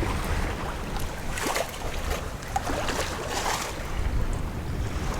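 Wind buffeting the microphone over the wash of water around a sailboat under way, a steady low rumble with brief louder gusts of noise.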